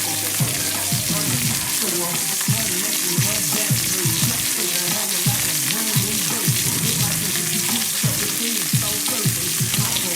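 Chicken sizzling steadily in a hot pan as its cognac glaze cooks down.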